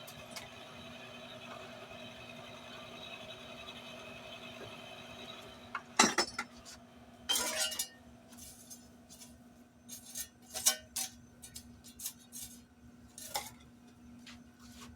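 Steel tools and stock being handled at a forging bench, with metal clanking and clinking. The loudest clank comes about six seconds in and is followed by a short scraping clatter, then scattered light clinks. A steady hum runs underneath at first and stops just before the first clank.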